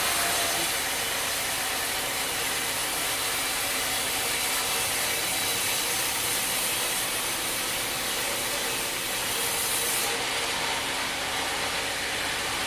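Sawmill saw cutting through wood with a steady hiss. The high, bright part of the sound eases off about ten seconds in.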